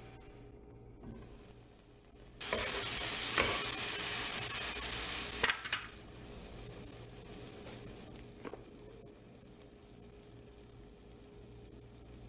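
Diced tomatoes and onions frying in oil in a pan. A loud sizzle starts suddenly about two seconds in and lasts about three seconds, with a few sharp clinks, then drops to a quieter, steady sizzle with one more clink.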